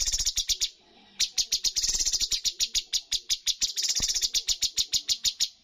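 Cucak cungkok singing a rapid-fire series of sharp, repeated notes, about seven a second, with a brief pause about a second in.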